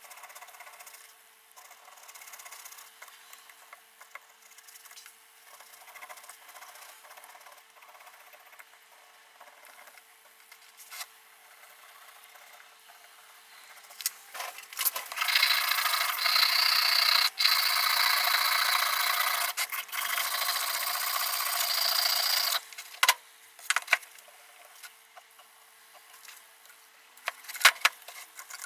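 Light clicks and handling noises, then about seven seconds of steady rasping scraping on a part of an old Makita 1800 electric planer, ending in a few sharp clicks.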